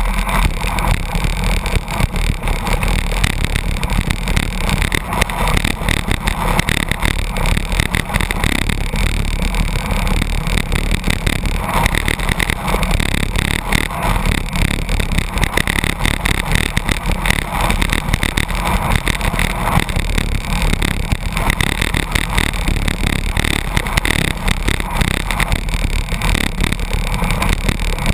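Steady, loud rush of wind and road noise from a road bicycle drafting close behind a truck at about 82 km/h, with constant fluttery buffeting and a low rumble.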